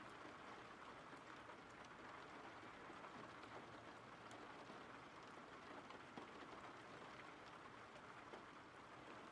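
Faint, steady rain: an even hiss of rainfall with a few light drop ticks scattered through it.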